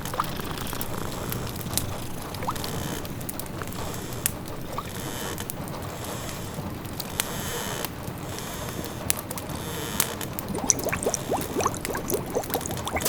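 A pot of food simmering, its liquid bubbling and popping, more busily near the end, over a wood fire crackling with sharp snaps and a steady hiss of rain.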